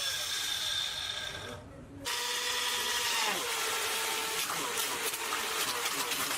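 Small 775 DC motor water pump running with a steady whine. About two seconds in the sound cuts out briefly and restarts, and about a second later the whine drops in pitch and then holds steady.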